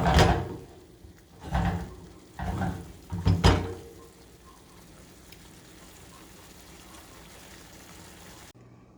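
A spoon stirring and scraping chicken in a frying pan, about four strokes in the first three and a half seconds, then a faint steady sizzle as the chicken in tomato sauce cooks over medium flame.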